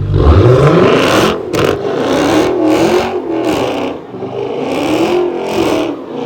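Vehicle engine revving hard: it sweeps up at the start, then rises and falls several times. Two sharp cracks come about a second and a half in.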